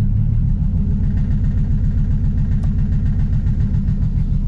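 Turbocharged Toyota JZ straight-six in a Lexus IS300 running at idle with an even pulsing beat. It is firing again now that fuel reaches it, after a collapsed fuel-pump O-ring had starved it and kept it from starting.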